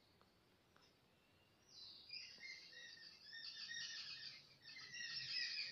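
Near silence, then from about two seconds in, birds chirping with many overlapping high twittering notes.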